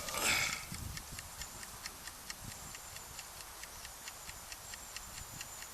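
Wood campfire crackling, with sharp irregular pops and clicks several times a second. A short rush of noise comes right at the start.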